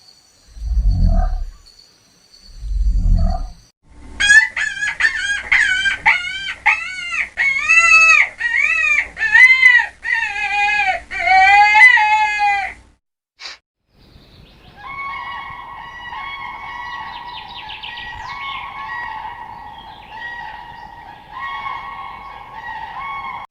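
Animal calls: three deep grunting pulses, then about nine seconds of rapid, repeated short arching calls like a fowl's. After a brief gap comes a long, steady, high call that wavers slightly.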